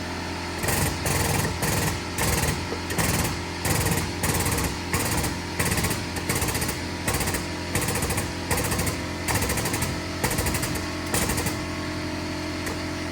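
Hammer blows on the car's body metal come in quick runs of two or three a second over a steady machine hum. The blows stop about eleven seconds in while the hum goes on.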